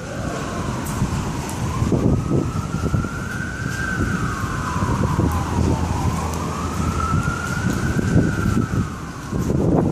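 A siren wailing, its pitch slowly rising and falling about twice, over loud gusting wind on the microphone.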